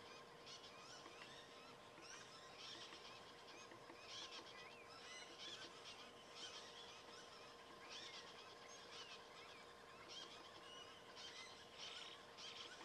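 Faint chirping of small birds in the bush: many short rising chirps in irregular clusters, over a faint steady hum.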